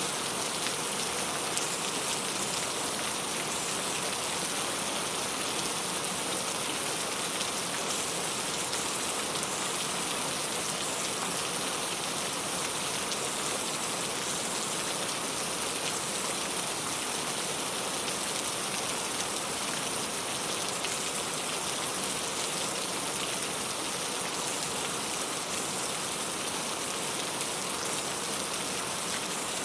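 Steady rain falling, an even hiss with fine patter of drops on surfaces.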